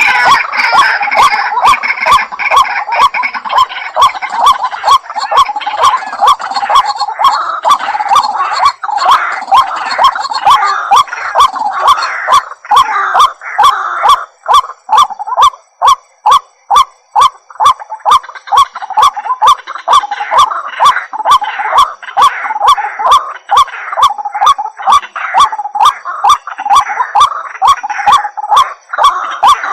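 White-breasted waterhen calling: a long, loud series of harsh, honking notes repeated about twice a second without a break.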